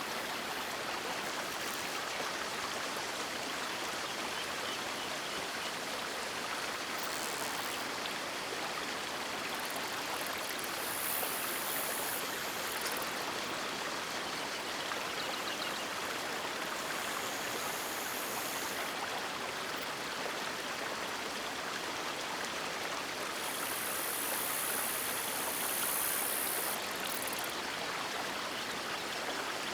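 River water rushing and splashing steadily over rocks, a continuous even hiss. A thin, very high hiss comes and goes several times over it.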